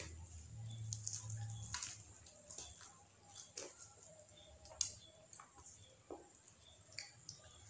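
Close-up eating sounds: a person chewing crispy fried chicken and rice, with low muffled chewing for about the first two seconds, then scattered soft mouth clicks and smacks.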